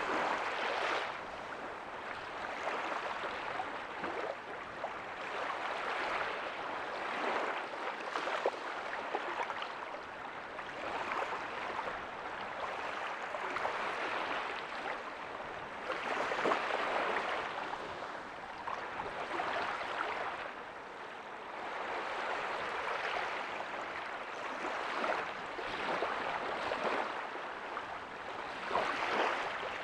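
Small ocean waves breaking softly on a beach, a steady wash of surf that swells and eases every couple of seconds.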